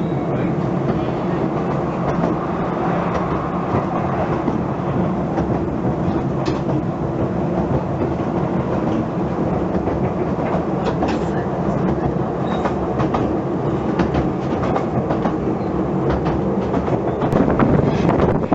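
Narrow-gauge heritage train running along the track: a steady rumble with frequent clicks from the wheels and rails.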